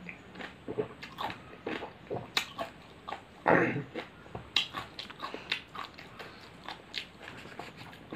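Close-up mouth sounds of a person chewing pani puri (golgappa): the crisp fried shells crackle and crunch wetly in irregular short clicks. There is one louder, longer burst of chewing noise about three and a half seconds in.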